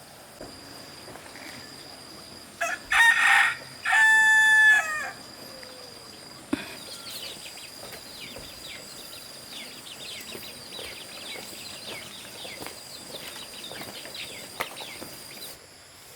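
Rooster crowing once: a short opening note, then a long held crow that falls away at the end. A sharp click follows about a second and a half later, then faint scattered sounds over a steady high tone.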